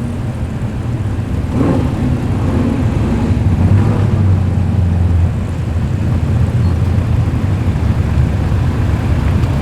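Car engine running at low revs with a steady low rumble as a car rolls slowly past, swelling slightly a couple of times.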